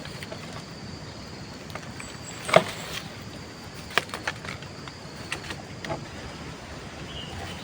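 Scattered light clicks and knocks, the loudest about two and a half seconds in and another a second and a half later, over a steady background hiss with a faint high steady tone.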